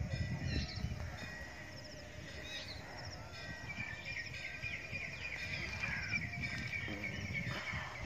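Small birds chirping on and off, with one bird holding a long, wavering song from about halfway to the end, over a low rumble.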